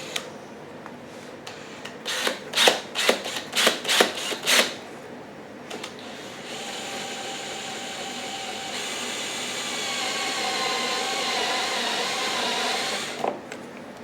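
Electric drill with a step drill (unibit) boring a hole in a generator's plastic casing: a run of short, loud bursts, then the drill running steadily with a whine for about six seconds as the bit cuts, growing a little louder before it stops near the end.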